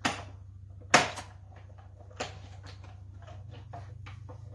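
Two sharp knocks about a second apart, then a lighter knock and a run of small clicks: papercraft tools and die-cutting plates being handled and set down on a work table, over a low steady hum.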